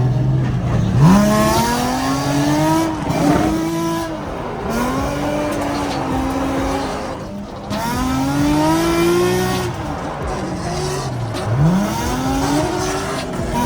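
Drift car engine revving hard, its pitch repeatedly climbing for about a second and then falling back as the throttle is worked, over tyre squeal.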